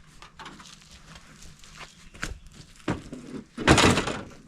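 A few light knocks, then a heavier dull thud about three and a half seconds in.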